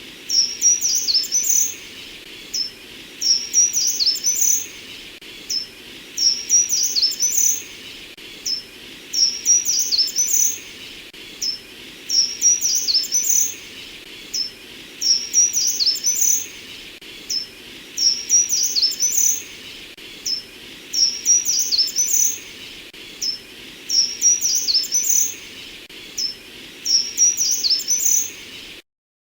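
A songbird singing short, high-pitched phrases of quick sliding notes, each about a second long and repeated about every two seconds, over a steady hiss of background noise.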